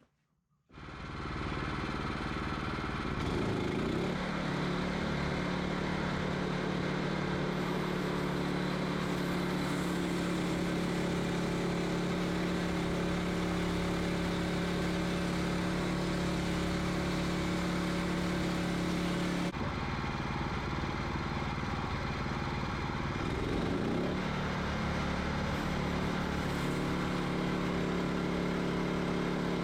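Wood-Mizer LX25 band sawmill running steadily while sawing cedar into boards. It starts abruptly about a second in, and its pitch wavers briefly twice.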